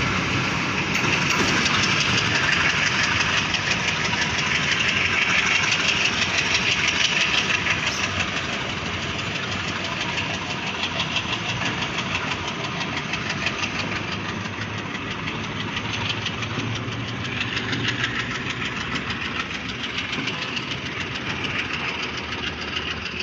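Passenger train pulling away along the track, a steady rattling clatter of wheels and carriages on the rails that slowly fades as the train recedes.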